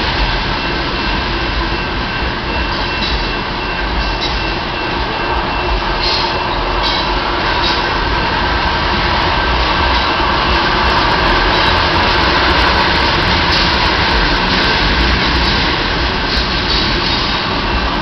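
Freight train tank cars rolling past at a grade crossing: a steady rumble and rush of steel wheels on the rails, with a few scattered clicks.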